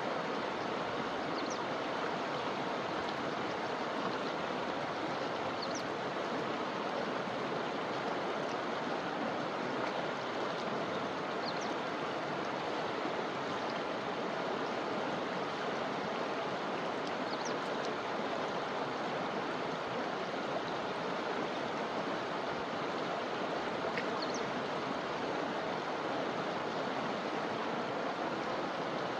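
Forest river flowing over rocks and branches, a steady unbroken rush of water. A few faint, brief high notes sound over it every five or six seconds.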